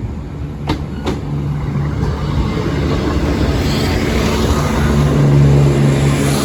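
A diesel passenger train running through a level crossing, its engine hum and wheel noise growing louder to a peak near the end, then easing. Two sharp clicks about a second in.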